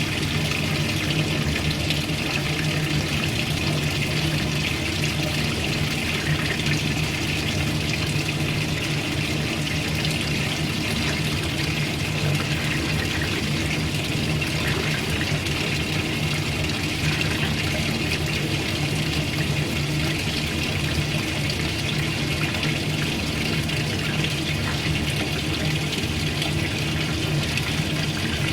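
Washing machine running steadily with water churning inside, a low motor hum under the sloshing.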